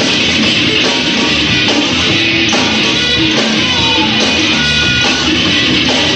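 Rock band playing live: loud, continuous guitar-driven heavy rock.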